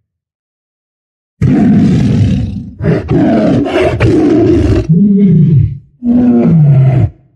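Tiger roaring: after a pause, one long loud roar about a second and a half in, followed by two shorter calls that drop in pitch.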